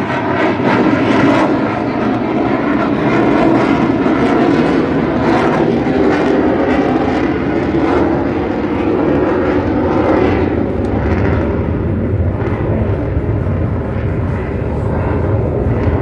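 Fixed-wing aircraft engine noise, a loud continuous rumble as a plane flies over; the sound deepens in the second half.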